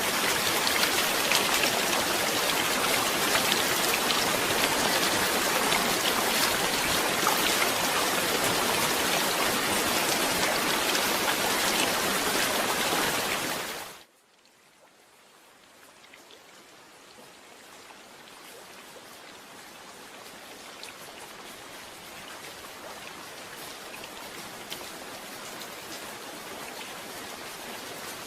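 Steady heavy rain that fades out quickly about halfway through, then lighter rain fades back in and slowly grows louder.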